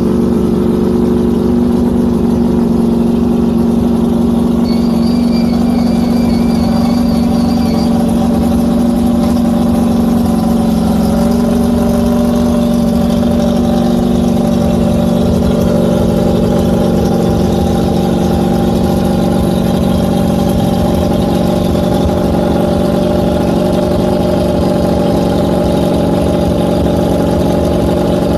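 Ducati Panigale V4 R superbike's V4 race engine idling steadily just after being started, a loud, even note. A faint run of electronic beeps sounds briefly about five seconds in.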